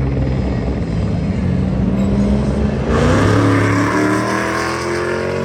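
Car engine accelerating hard, its pitch climbing steadily and getting louder from about halfway through.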